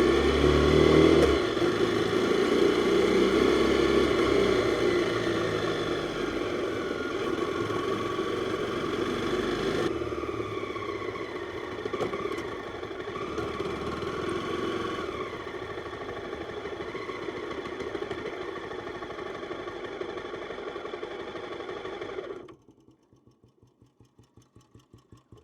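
Jawa 42's single-cylinder four-stroke engine running on the move: it revs up about a second in, then runs on with rises and falls in pitch as it gradually eases off. About 22 seconds in the engine sound cuts off abruptly, leaving faint, rapid, regular ticking.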